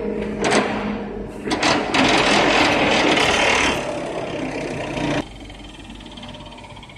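Crowthron lathe running, with a few knocks in the first two seconds, then a loud, noisy stretch that cuts off suddenly about five seconds in, leaving a quieter steady run.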